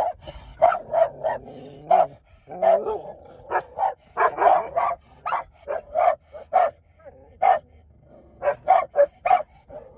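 Dogs barking, a quick run of about twenty short, sharp barks in clusters, with a pause of about a second roughly three-quarters of the way in.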